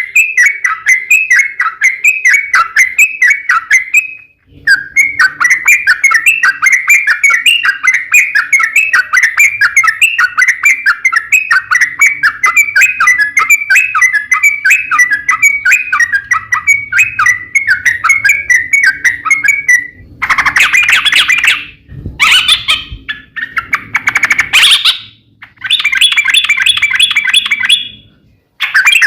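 Yellow-vented bulbul (trucuk) singing a long, rapid chattering run of notes. The song breaks off briefly about four seconds in. Near the end it turns into shorter, denser phrases that cut off abruptly, as in an edited lure recording.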